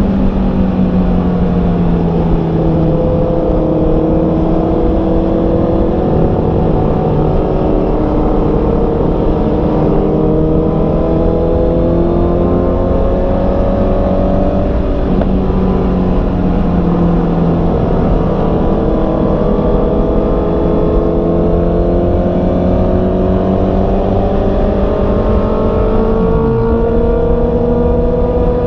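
Honda CB650R's inline-four engine running while riding, its pitch slowly climbing and falling as the speed changes, over a rush of wind noise.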